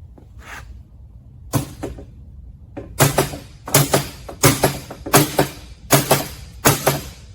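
Hammer blows driving a bearing into place: two lighter taps, then steady strikes about one and a half per second, each with a short metallic ring.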